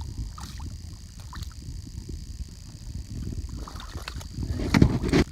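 Water sloshing around a kayak with a low wind rumble on the microphone and small knocks. Near the end comes a louder, brief rush of splashing.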